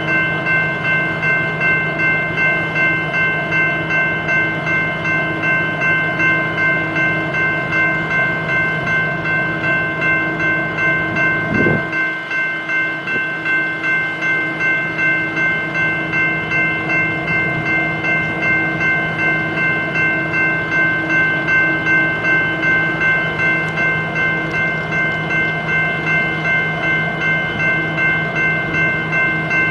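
BNSF diesel locomotives idling at a standstill: a steady engine drone with a held whine over it, pulsing about two to three times a second. About twelve seconds in, a low sound slides quickly down in pitch and the deepest rumble drops away for a few seconds.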